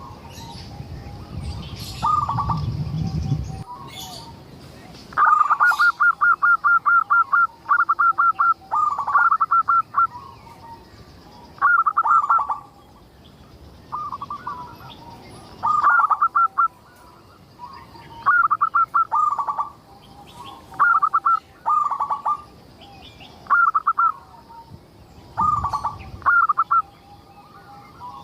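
Zebra dove (perkutut) cooing: bursts of quick, staccato coo notes, repeated every second or two. A low rumble sits under the first few seconds.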